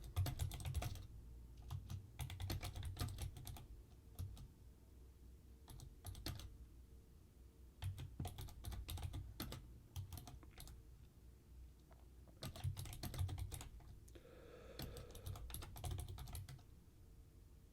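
Computer keyboard typing in short runs of keystrokes, about six runs separated by pauses of a second or two.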